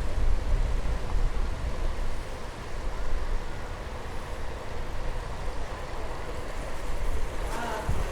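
Steady outdoor rumble of road traffic and wind, heard from a moving bicycle, louder in the first couple of seconds and then easing. A short wavering pitched sound comes in near the end.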